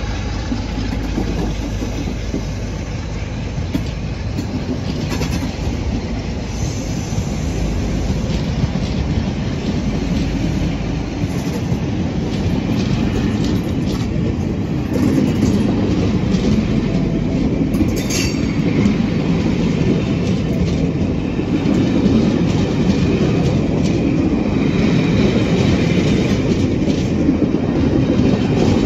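Passenger coaches hauled by a pair of Class 47 diesel locomotives rolling past close by as the train departs, their wheels clicking over rail joints. The locomotives' deep engine rumble fades out in the first ten seconds or so, and the rolling noise of the coaches then grows louder.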